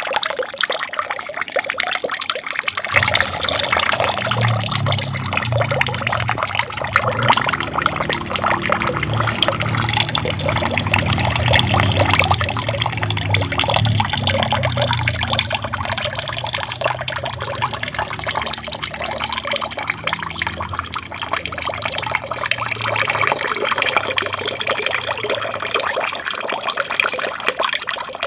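Water from a small aquarium waterfall trickling and splashing steadily. A deeper rumble joins about three seconds in and fades away near the end.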